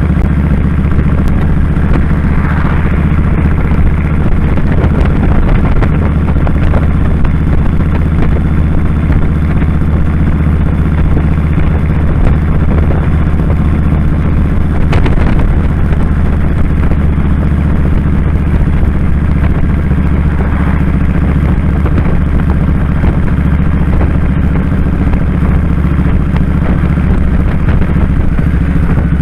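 2001 Kawasaki Drifter 1500's V-twin engine running steadily on the move, with a single short click about halfway through.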